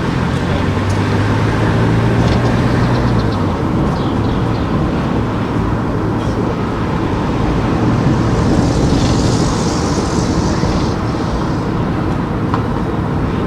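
Car driving along town streets: steady engine and tyre noise, with a hiss that swells about eight and a half seconds in and fades a couple of seconds later.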